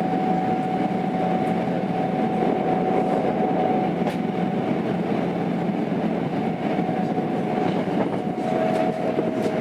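Tokyo Metro 02 series subway car with IGBT inverter running on the Marunouchi Line, heard from inside the car: a steady rumble of wheels on rail with a high motor whine for the first few seconds and a few sharp rail-joint clicks. Near the end a new pair of whining tones comes in.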